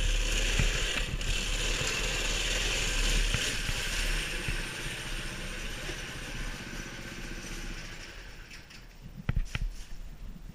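290cc mini bike engine running, fading gradually over several seconds, followed by a few sharp clicks near the end.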